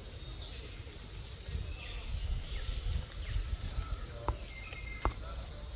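Several short, high chirping animal calls over a steady low rumble, with a few sharp clicks about four and five seconds in.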